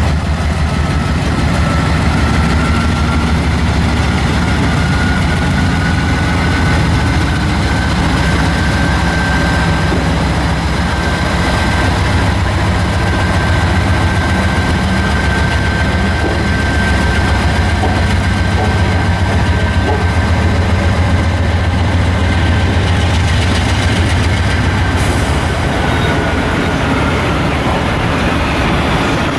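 GE C44-9W diesel locomotive under power, pulling a string of autorack freight cars past: a steady low engine throb, with the cars rolling on the rails. A thin high whine rises slightly, holds, and fades out near the end.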